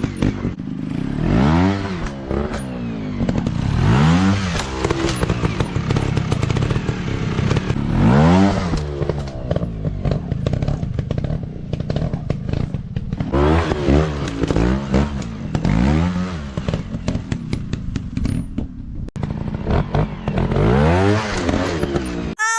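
150 cc dirt bike engines revving up and falling back again and again, with clattering knocks over the engine noise.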